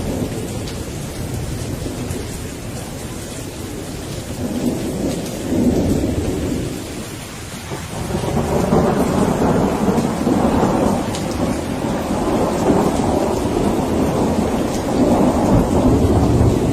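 Thunderstorm: steady rain with low, rolling thunder that swells about five seconds in, eases briefly, then rumbles louder again from about eight seconds in.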